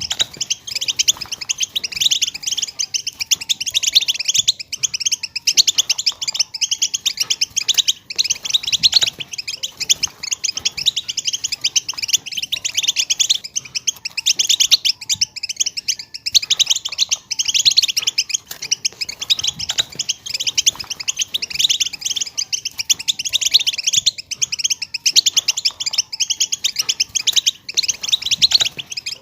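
European goldfinch twittering in a fast, unbroken chatter of high chirps and trills, the call that keepers play to prompt a silent goldfinch to sing.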